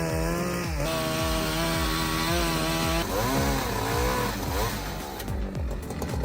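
Chainsaw running at high revs while cutting, its engine pitch sagging and wavering under load about a second in and again in the middle.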